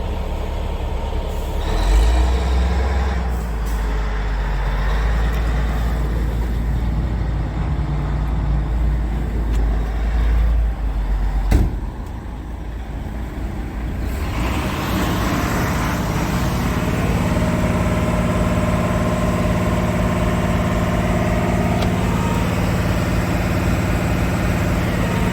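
Scania R450 truck's inline-six diesel engine running, with a heavy low rumble at first. A sharp click comes a little before halfway, a rush of hiss follows a few seconds later, and the engine then settles into a steady hum.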